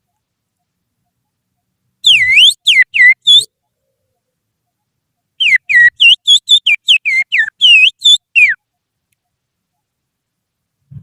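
A person whistling through the fingers in imitation of an oriental magpie-robin's (kacer) song: two phrases of quick, swooping whistled notes, a short one about two seconds in and a longer one starting about five and a half seconds in.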